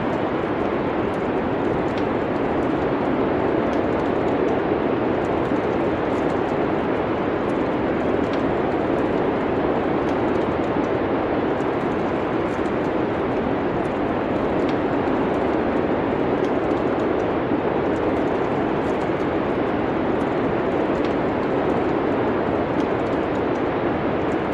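Wood fire crackling faintly, with scattered small pops over a steady rushing noise like wind.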